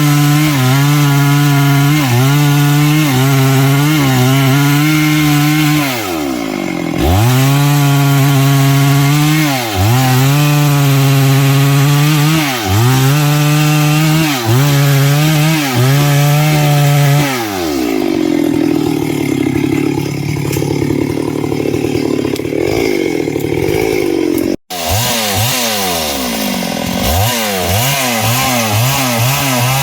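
Stihl MS382 two-stroke chainsaw cutting through wood at high revs. Its engine pitch dips and recovers every second or two as the chain loads up in the cut. For several seconds past the middle the sound turns rougher and less even, and it cuts out for an instant before the revving cut resumes.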